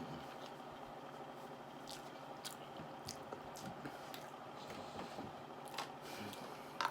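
Close-miked mouth chewing soft food, chicken Alfredo pasta, with wet smacks and small clicks.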